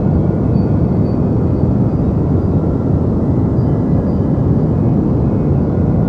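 Steady deep white noise, an even hiss weighted heavily toward the bass and fading in the treble, unchanging throughout.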